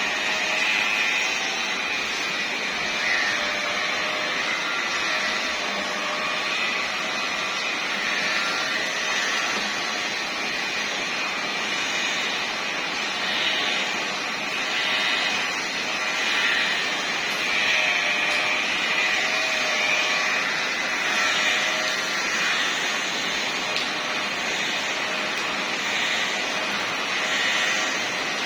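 Electric car polishing machine running steadily as it buffs car paint, its whine wavering slightly in pitch as the pad is worked across the panel.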